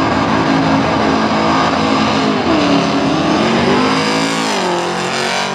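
Holden Commodore burnout car's engine revving hard as its rear tyres spin, over a broad hiss. The pitch sags and climbs back twice, about halfway through and again near the end.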